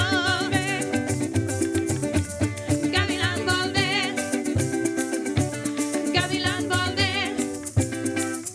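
Parang music: plucked and strummed strings with maracas shaking a steady rhythm over a plucked bass, and voices singing in phrases at the start, about three seconds in, and again near seven seconds.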